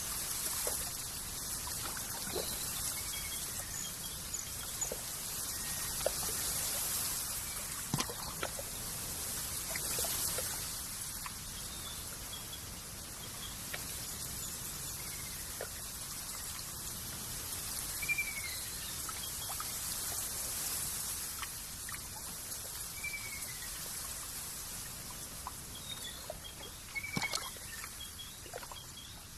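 Steady trickling, pouring water with a few short bird chirps now and then and scattered small clicks.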